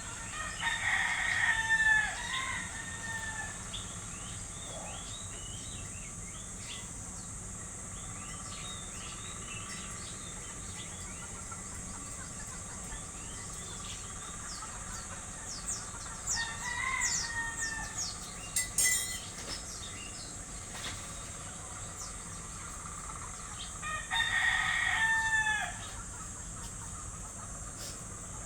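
A rooster crowing three times: about a second in, around sixteen seconds, and near the end. Small birds chirp in between over a steady high hiss.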